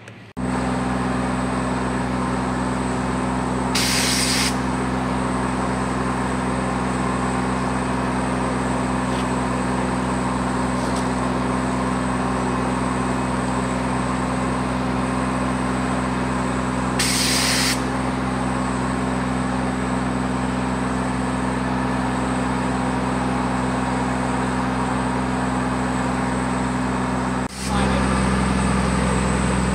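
A large diesel engine runs steadily at constant speed, as a fire truck does while driving its pump to move floodwater. Two short, sharp hisses of air come about thirteen seconds apart. The engine sound drops out briefly near the end, then carries on.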